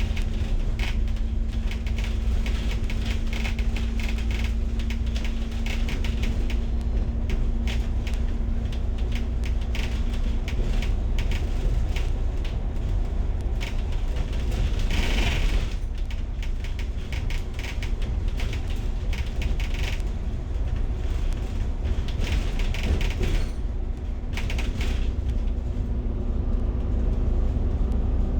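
Ride noise inside a moving bus: a steady low engine and road rumble with constant clicking and rattling from the bus's fittings, a steady hum that drops out partway and returns near the end, and a brief rush of noise about halfway through.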